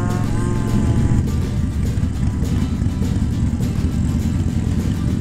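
Motorcycle engine running while riding, heard from the rider's own bike, with wind buffeting on the microphone.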